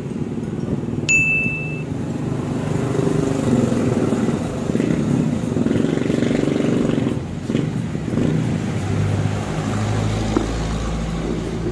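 Motorcycle engine running, its speed rising and falling a little. A brief high beep sounds about a second in.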